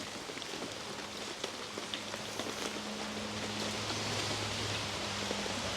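Heavy rain falling, with scattered drops ticking close by.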